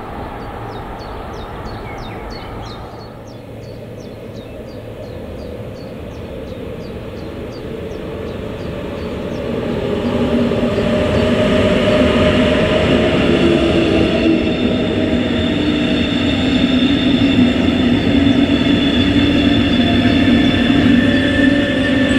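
Trains on an electrified main line: a container freight train rolling at a distance, then from about ten seconds in, louder, a double-deck regional passenger train running past close by, steady whining tones over the rumble of its wheels.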